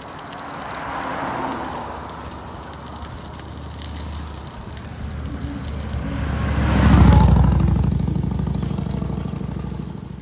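A motor vehicle approaching and passing close by, its engine and road noise rising to a peak about seven seconds in, then fading away. A fainter swell of the same kind comes about a second in.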